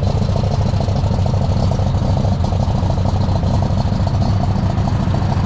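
A large tractor engine idling loudly and steadily, with a low rumble that holds an even pitch and is not revving.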